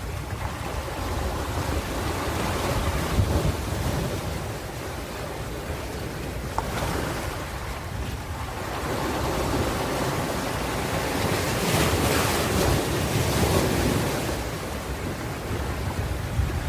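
Ocean surf washing in, rising and falling in two swells. A low rumble of wind buffets the microphone throughout.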